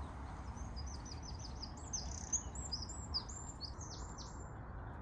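A small songbird singing a quick run of short, high notes, each sweeping downward, for about four seconds, over a steady low outdoor rumble.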